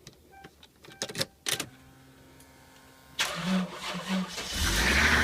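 Toyota Soarer cold start: a few clicks and two short beeps, a faint steady hum, then the starter cranks the engine from a little past three seconds in, and it catches and runs loud and steady near the end.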